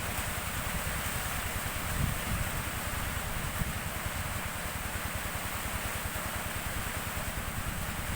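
Steady hiss of falling rain, with wind buffeting the microphone in an uneven low rumble.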